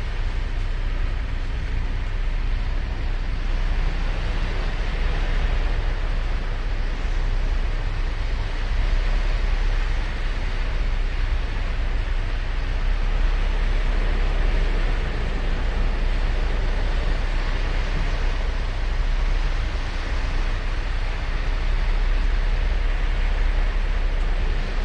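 Ocean surf on a sandy beach: a continuous wash of breaking waves that swells and eases every few seconds, over a steady low rumble.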